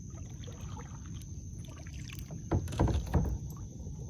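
Kayak being paddled on the water: a steady low rumble, with a cluster of loud paddle strokes and knocks about two and a half to three seconds in.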